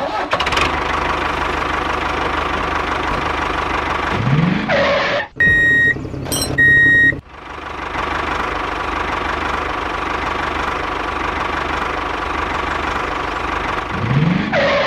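Tractor engine running steadily, with a short rising rev about four seconds in. Two short horn beeps follow. The engine then runs on, and the rev rises again near the end.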